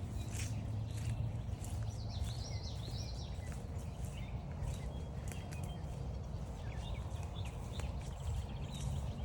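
Footsteps on a dirt forest trail under a steady low rumble, with songbirds singing short chirping phrases every few seconds.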